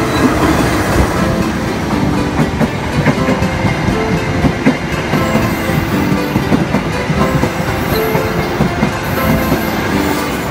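A diesel locomotive and its passenger coaches passing close by on the adjacent track, with a steady run of wheel clatter over the rail joints.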